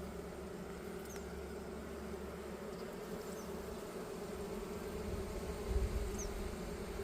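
Honeybees buzzing in a steady hum around an opened hive, with a brief low rumble about six seconds in.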